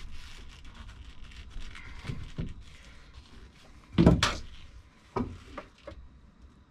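A wood lathe's metal tool rest being shifted and adjusted by hand, with a few clunks and knocks, the loudest about four seconds in.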